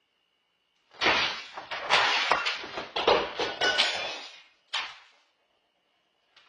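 A burst of loud banging and clattering, hit after hit for about three and a half seconds, then one more bang.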